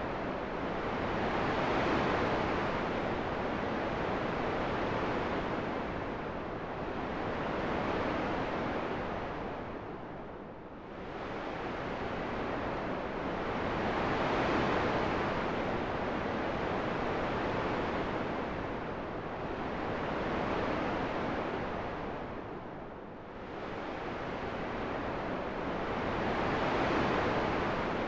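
Wind-like rushing noise, steady and without tones, swelling and easing in slow waves about every six seconds, with a deeper lull about a third of the way through and another about four-fifths through.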